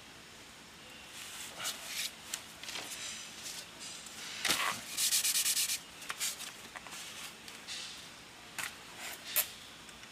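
Irregular rubbing and scraping handling noises with a few sharp clicks, and a short, rapid rattling burst about halfway through.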